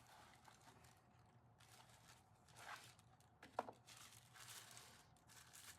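Faint rustling of packaging being handled, with a couple of brief light clicks near the middle, against near silence.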